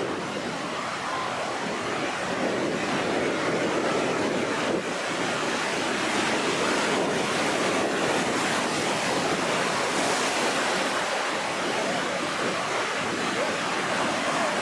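Rough sea surf washing in steadily, stirred up ahead of a typhoon, with wind.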